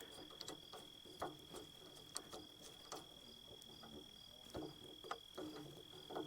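Faint, scattered clicks and small metallic taps of hand tools and hose fittings being handled while a new hydraulic hose is fitted, over a steady high-pitched whine.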